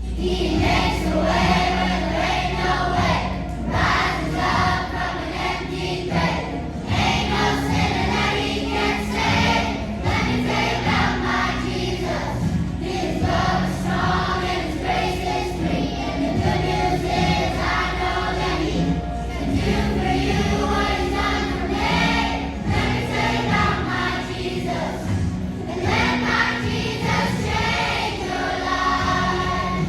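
A choir of young voices singing a song with musical accompaniment.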